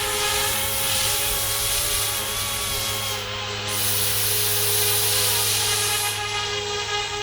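Yu Xiang F06 EC135 brushless RC helicopter hovering, its electric motors and rotors giving a steady whine that wavers a little in pitch.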